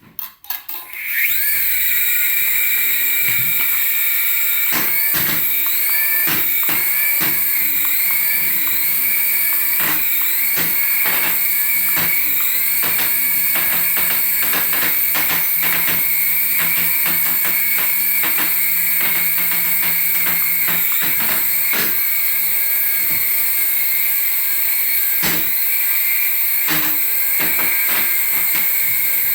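Small electric motor of a toy RC aircraft spinning up about a second in and running at high speed with a steady high-pitched whine, its pitch dipping and rising a little as the throttle changes, with frequent clicks and taps.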